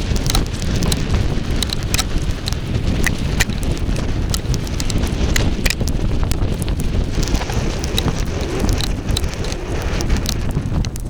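Sandstorm wind buffeting the microphone in a loud, unbroken rush, peppered throughout with sharp ticks of blown sand striking it.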